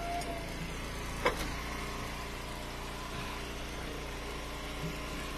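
Gas engine of a hydraulic wood splitter running steadily at idle, with one sharp knock about a second in.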